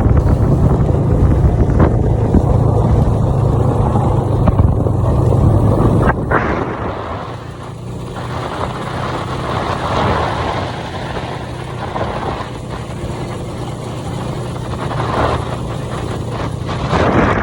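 Snowmobile engine running steadily with wind noise on the microphone. The engine note and overall level drop about six seconds in.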